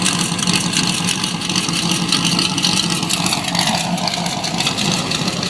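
Ford GT40's V8 exhaust running steadily at idle, a dense, even pulsing with no revs.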